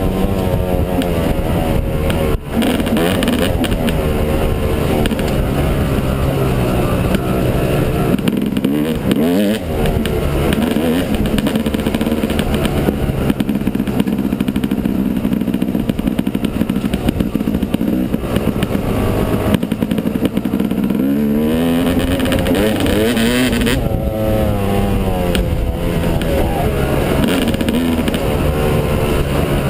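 Yamaha 250 dirt bike engine running while riding, revving up and down, its pitch rising and falling again and again as the throttle opens and closes.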